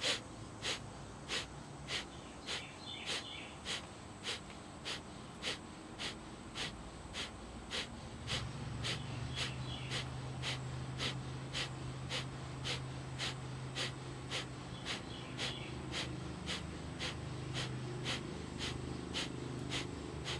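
Kapalabhati breathwork: a person forcing short, sharp exhales out through the nose in an even rhythm, a little under two a second, the belly pumping each breath out. A low steady hum joins from about eight seconds in.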